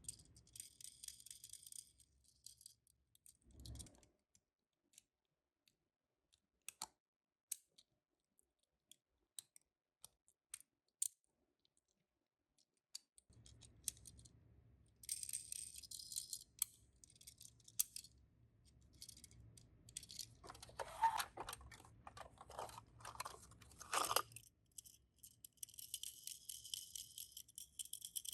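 Small die-cast toy minicars being handled, with scattered light clicks and several short bursts of high rattling. A run of louder clacks comes about three-quarters of the way through.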